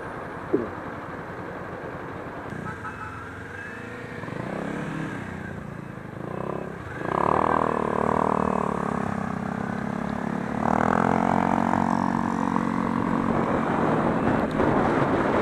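Kawasaki Ninja 400's parallel-twin engine pulling through traffic. Its note picks up and grows louder about seven seconds in, and again at around eleven seconds.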